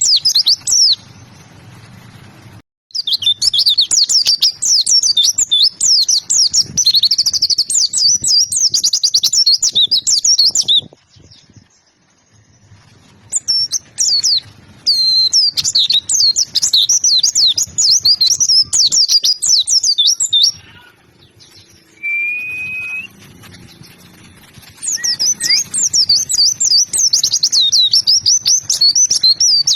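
A white-eye (pleci) in full song: long runs of fast, high twittering notes that break off three times. During the longest break there is one short rising whistle.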